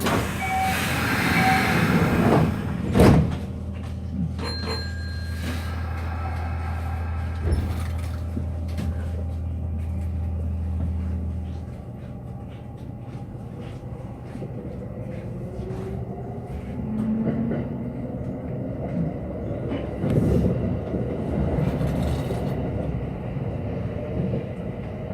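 Train doors sliding shut, closing with a knock about three seconds in, while the stopped electric train hums steadily. About twelve seconds in the hum gives way to the train's running noise as it moves off, with rail clatter later on.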